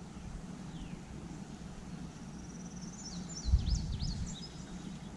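Steady low hum of honey bees around an open hive. About three seconds in, a bird sings a quick run of high chirps, and a short low thump sounds at about the same moment.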